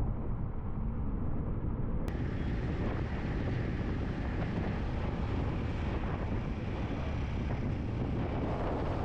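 Steady wind rush on a helmet-mounted microphone while a Yamaha MT-15 motorcycle is ridden along, with its single-cylinder engine running underneath.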